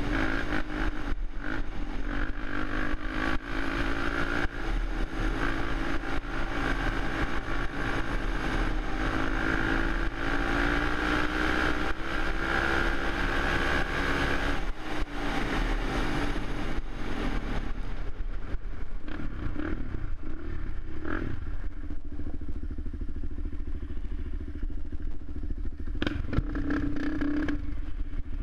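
Suzuki LTZ 400 quad's single-cylinder four-stroke engine running. It holds a fairly steady note for about fifteen seconds, dips briefly, then the pitch shifts, and the sound turns duller in the last third.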